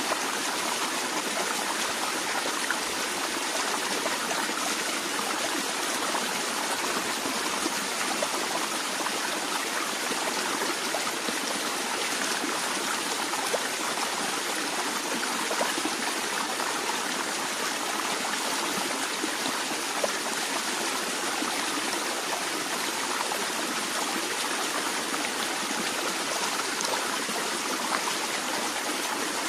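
A stream of water flowing steadily, with a continuous rushing babble and small scattered splashes.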